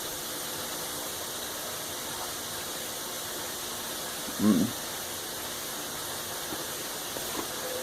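Chicken deep-frying in hot oil, giving a steady, even sizzle.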